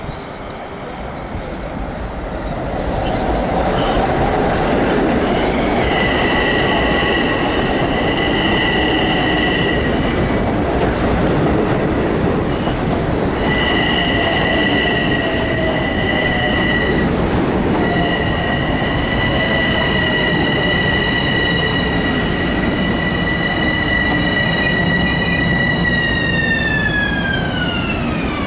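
Long Island Rail Road train running through the station, a loud rumble with high-pitched squealing tones that come and go, then slide down in pitch near the end as the train slows.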